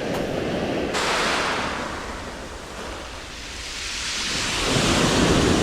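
Surf breaking on the beach: one wave crashes about a second in and fades, and a louder one builds from about four and a half seconds. Wind buffets the microphone throughout.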